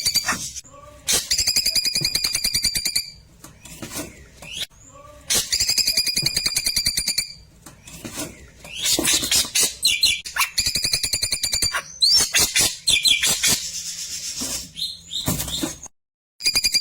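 Klewer bird song: a rapid, rattling trill of about two seconds, repeated four times, with bursts of sharp chirps and quick whistled glides between the trills.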